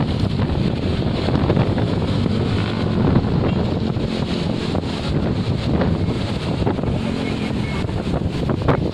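Wind buffeting the microphone: a steady low rumble with small gusts.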